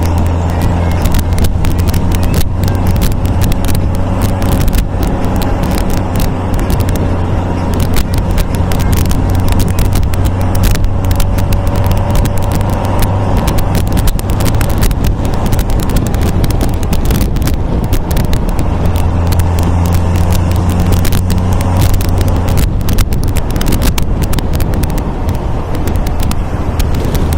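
MG MGA roadster's four-cylinder engine pulling steadily at cruising speed, its note shifting slightly once or twice, with wind buffeting the microphone throughout.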